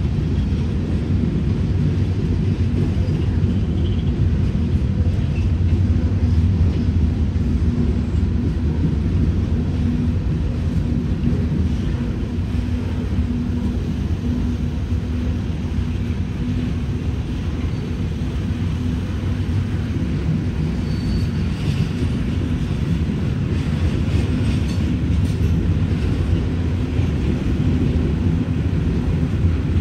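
Steady low rumble of a freight train's boxcars rolling past, mixed with idling road traffic, heard from inside a vehicle.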